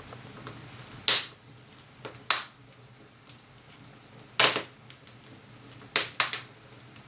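Wood crackling and popping as it burns in a wood-burning stove: a handful of sharp pops between fainter crackles, two in quick succession near the end.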